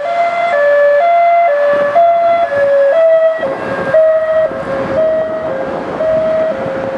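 Two-tone hi-lo emergency siren on a Thames Valley Police Vauxhall Vivaro cell van, switching between a higher and a lower note about twice a second, over road traffic noise.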